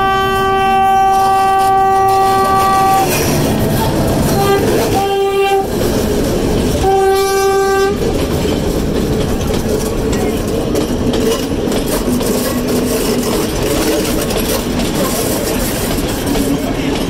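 Diesel locomotive horn sounding one long blast of about three seconds, then two shorter blasts around five and seven seconds in, very loud at close range. After that the train rolls steadily past, a continuous rumble and clatter of wheels on the rails.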